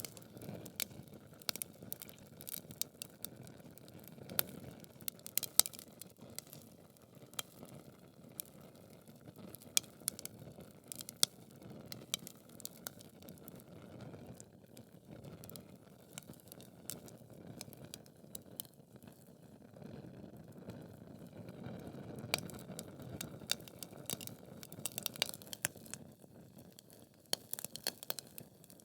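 Wood fire burning in a fireplace: logs crackling with frequent sharp pops over a steady low rush of flame. The pops come in irregular clusters.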